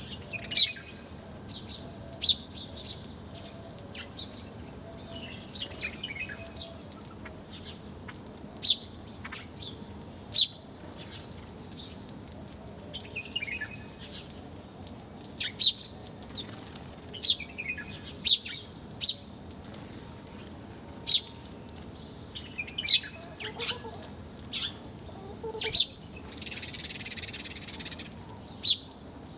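Small songbirds chirping, with many short, sharp, high chirps at irregular intervals. A brief hiss near the end sounds like a flutter of wings.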